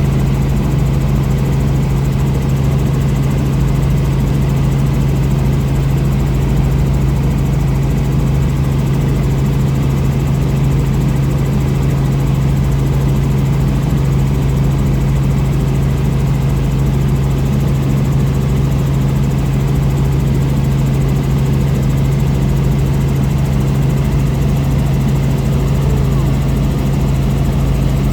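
Helicopter running steadily, a constant low hum with mechanical noise that stays at one level throughout.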